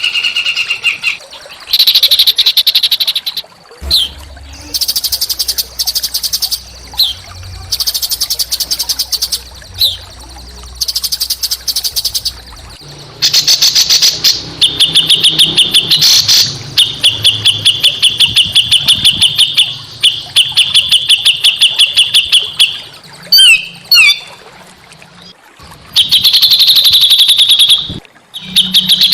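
Small songbirds singing harsh, rapid trills and chattering rattles in loud repeated bursts a second or more long, with a few quick whistled slides near the end. It is rough 'kasar' tutor song of the kind played to caged songbirds to set them singing.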